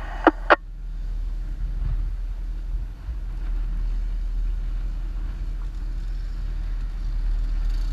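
Jeep engine running low and steady at light throttle as the vehicle creeps backward down a soft-sand dune, a deep even rumble. Two sharp clicks come just after the start.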